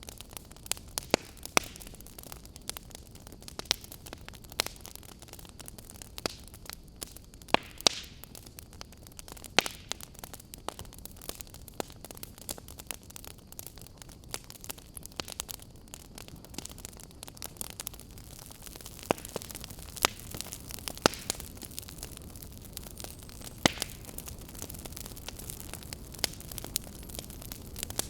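Wood fire burning in a fireplace, crackling with sharp irregular pops over a low steady hiss.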